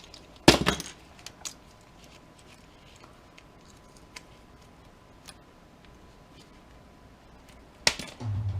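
Light clicks and taps of small metal switch parts and hand tools being handled, with a sharp clack about half a second in and another near the end.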